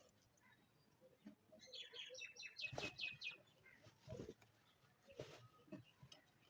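A bird chirping faintly in the background, a quick run of about eight short notes, with a few faint knocks.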